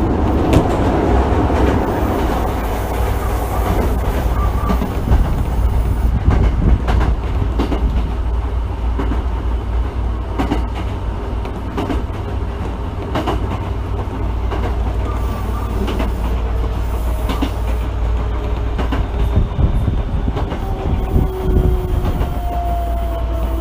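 Unrenewed Osaka Municipal Subway 66 series car running, heard from inside the car: a steady low rumble with the wheels clicking over rail joints at regular intervals. Near the end a whine falls slowly in pitch.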